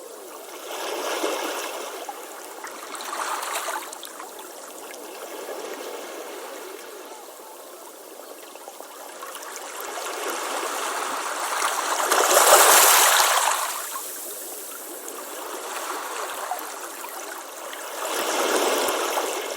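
Ocean waves washing onto a beach, swelling and falling back every few seconds, with the biggest wave breaking about two-thirds of the way through.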